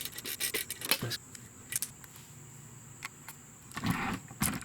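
Metal clicks and clinks of hand tools on a motorcycle rear brake caliper's bolts: a quick run of ticks in the first second, then scattered single clicks and a short clatter near the end.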